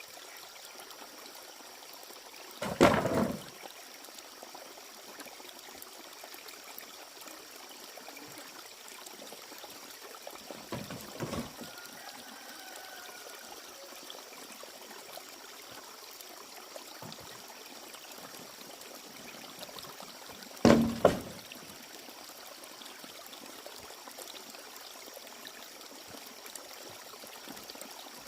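Steady trickle of running water, broken by three louder short sounds about three, eleven and twenty-one seconds in, the first and last the loudest.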